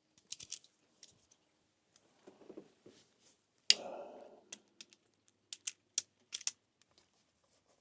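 Scattered small clicks and taps of an inline fuse holder being screwed back into place by hand, with one sharper click a little under halfway through and a quick run of clicks near the end.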